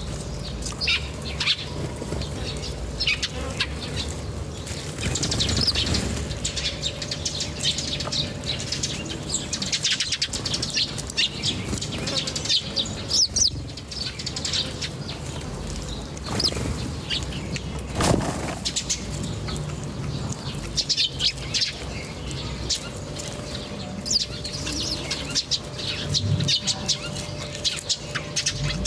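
A flock of small birds chirping, with many short high calls overlapping throughout, mixed with wing flutters and the odd knock. The loudest knock comes about eighteen seconds in.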